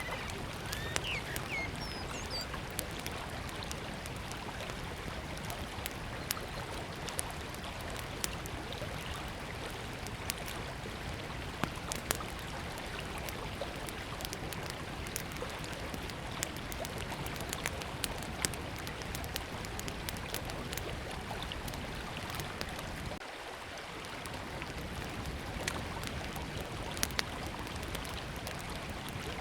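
Small wood fire crackling, with many sharp scattered pops, over the steady rush of a river. A bird chirps a few times about a second in.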